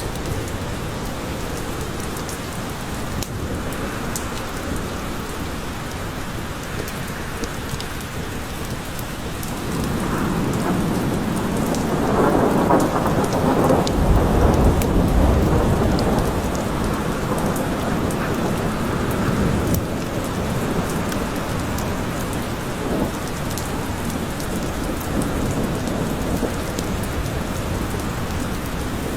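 Steady rain falling, with a long roll of thunder that swells about ten seconds in, peaks a few seconds later and fades out by about twenty seconds.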